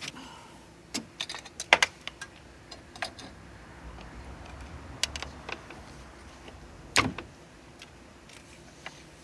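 Scattered metallic clicks and knocks as a car's oil pan is nudged and pried loose from the engine, with a quick cluster of clicks near the start and a heavier knock about seven seconds in.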